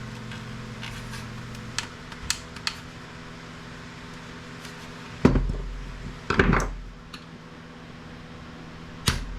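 Hard plastic and metal equipment handled on a workbench: a few light clicks, then two louder clattering knocks about five and six and a half seconds in, over a steady low hum.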